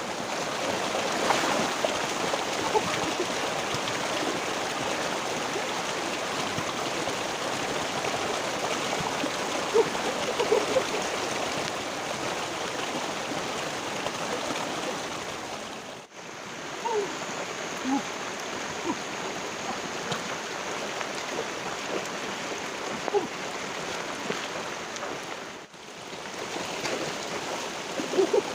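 Flowing river water, a steady rushing with a few small sounds in it; it drops out for a moment twice.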